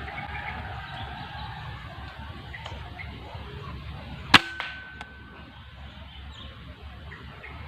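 A single sharp crack of an air rifle being fired, about four seconds in, with a brief ringing tone after it, over steady outdoor background noise.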